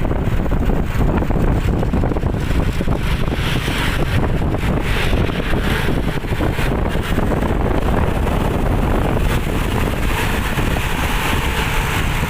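Wind buffeting the microphone over the steady rumble of road traffic.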